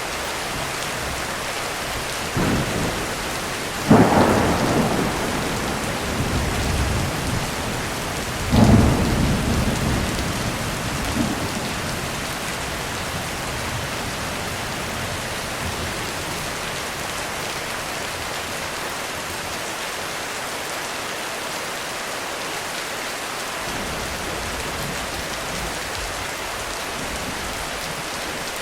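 Heavy rain falling steadily on a roof through a thunderstorm. A first rumble of thunder comes about two seconds in, then a sharp thunderclap about four seconds in rolls off over a couple of seconds. A second loud clap and rumble follows a few seconds later, and after that only the rain goes on.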